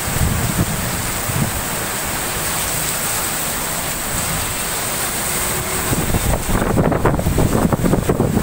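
Strong storm wind with rain, a steady rushing noise; from about six seconds in, gusts buffet the microphone in heavy, uneven low thumps.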